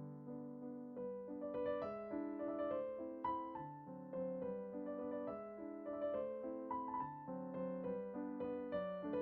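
Background music: gentle solo piano playing a flowing melody over soft chords.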